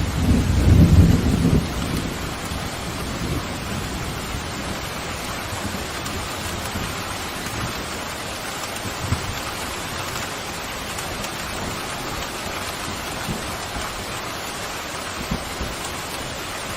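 Pouring rain hissing steadily, with a low rumble of thunder in the first couple of seconds that dies away.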